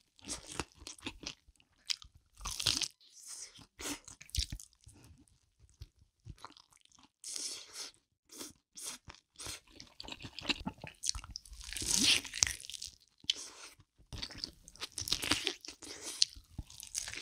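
Close-miked biting and chewing of sauce-coated fried chicken: the coating crunching and wet chewing in irregular bursts, with a louder run of crunching about twelve seconds in.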